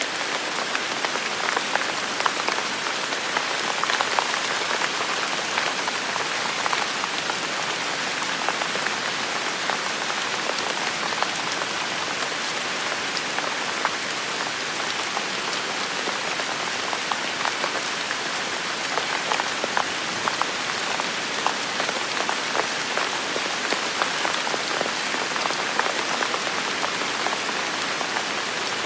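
Heavy, steady rain falling in a forest, a dense hiss of rainfall with many close individual drops pattering sharply.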